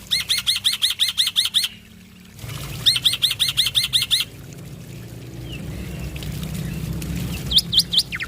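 Male black-winged starling (jalak putih) singing loudly in full song: two fast runs of sharply repeated high whistled notes, about six a second, each run lasting over a second, then three more notes near the end. A low steady hum lies underneath from about halfway in.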